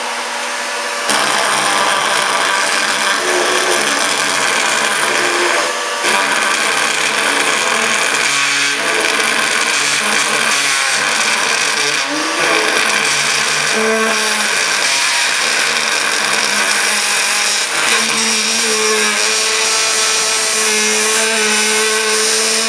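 Homemade card double-reed instrument blown by a vacuum cleaner's airflow, buzzing loudly over the running vacuum motor. Its pitch shifts and wavers as the reeds are worked by hand, and it gets louder about a second in.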